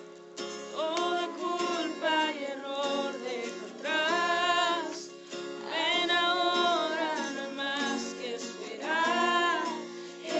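A slow song sung over acoustic guitar accompaniment, the singing in long held notes with vibrato.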